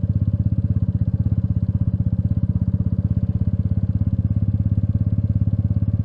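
Royal Enfield Meteor 350's single-cylinder engine idling with an even, steady thump.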